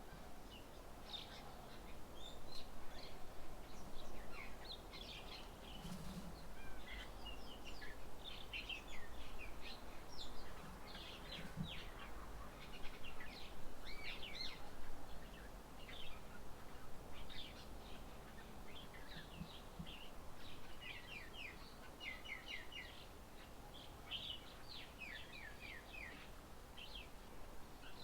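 Several small birds chirping and calling in a steady stream of short, quick notes, many sliding down in pitch, over a faint low background rumble.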